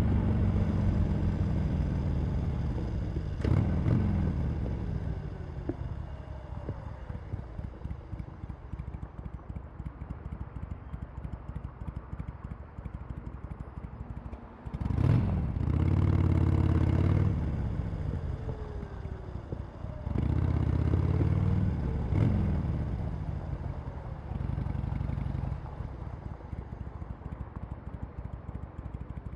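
Harley-Davidson Sportster Iron 883 V-twin through its stock exhaust: the engine falls away off the throttle, settles into a low uneven idle with a mechanical clatter, then three times opens up on the throttle for a few seconds and drops back.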